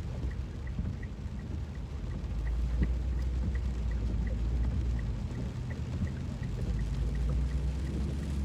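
Heavy monsoon rain falling on a moving car over the low, steady rumble of the engine and tyres, with a faint regular tick about three times a second.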